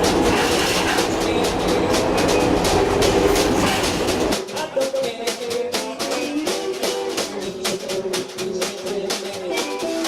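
A train running on the rails with a rumble and clickety-clack. About four seconds in, it cuts off suddenly and music with plucked-string notes takes over.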